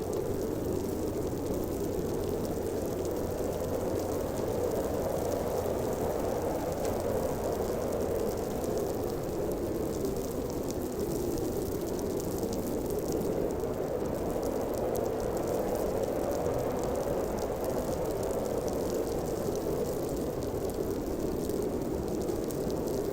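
Snowstorm wind blowing steadily, a deep rushing noise that swells and eases slightly, with a faint fine crackle on top.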